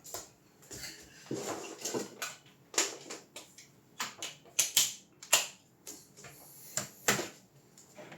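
Irregular clicks, taps and light clatter of small hard parts and tools being handled, about a dozen sharp knocks with some rustling between.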